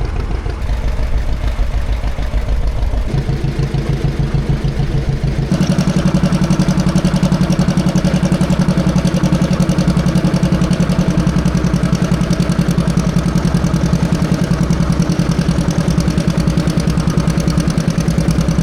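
Farm tractor engine running with an even, pulsing beat. Its note changes about three seconds in, and it comes up louder and fuller at about five and a half seconds, then holds steady at the higher speed or load.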